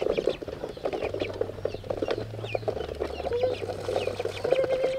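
A flock of ducks calling, with rapid overlapping chatter and scattered higher-pitched peeps.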